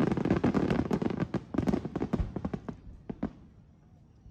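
Aerial fireworks crackling: a dense volley of rapid sharp pops that thins out and dies away about three seconds in.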